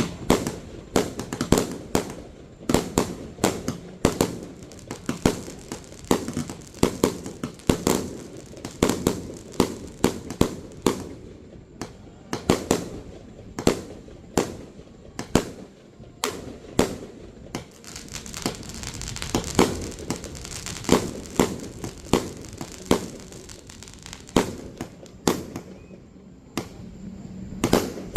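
Fireworks display: a dense, steady string of sharp bangs from firework bursts, often several a second, with no pause.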